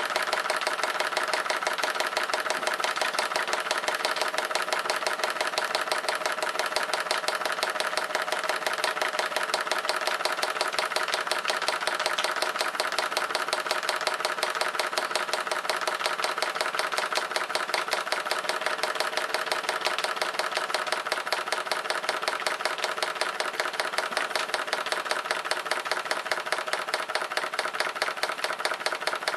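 Belledonne steam engine running steadily at slow speed on 3 bar steam pressure, a fast even beat of strokes that keeps the same pace throughout. It runs very smoothly, freshly run in.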